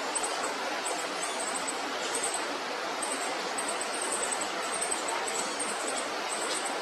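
Baby birds give faint, short, high-pitched chirps again and again over a steady hiss.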